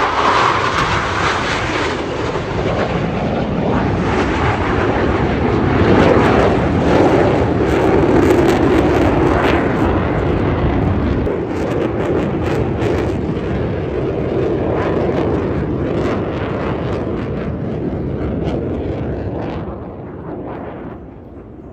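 Blue Angels F/A-18 Super Hornet jets passing overhead: a long, loud rush of jet engine noise that builds, then fades near the end.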